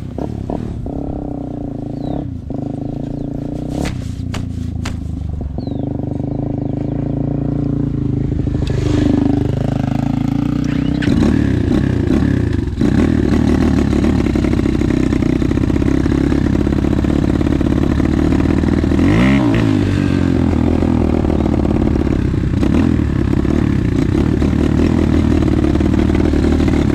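Single-cylinder enduro motorcycle engine running as the bike rides off, with a few sharp knocks in the first few seconds. The engine note dips and rises about nine seconds in, then holds steady and louder under load.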